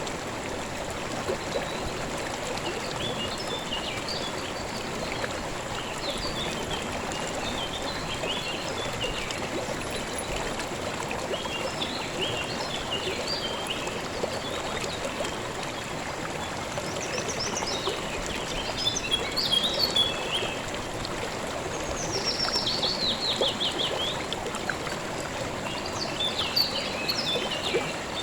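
A calm river or stream flowing and trickling steadily, with songbirds chirping over it throughout. About two-thirds of the way through, one bird gives a louder trill of quick notes falling in pitch.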